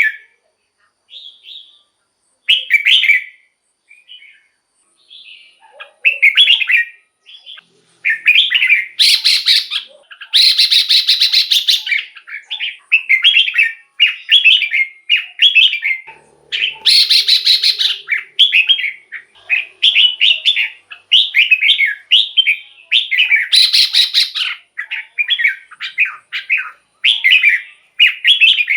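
Red-whiskered bulbul singing short, liquid warbled phrases. They come sparsely at first, then almost without a break from about eight seconds in, mixed with several harsher, scratchy calls.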